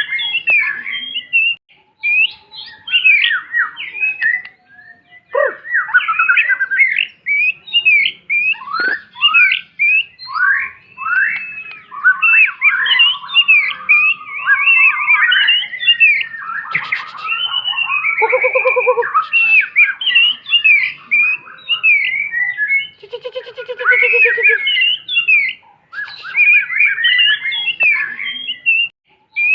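White-rumped shama singing a fast, varied song of whistled phrases and chirps with only brief pauses. Harsher buzzy notes come in about two-thirds of the way through and again near 24 seconds.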